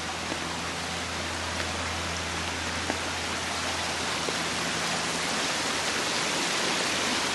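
Steady rushing of running or falling water, an even hiss without break that grows slightly louder in the second half, with a steady low hum underneath.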